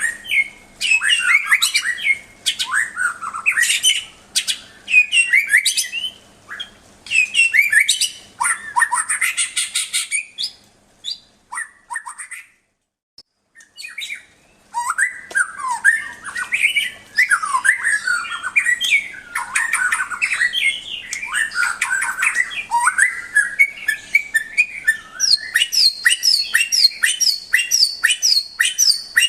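White-rumped shama (murai batu) singing: a varied run of whistled phrases, sliding notes and clicks, broken by about two seconds of silence in the middle. Near the end comes a quick series of short, repeated high notes.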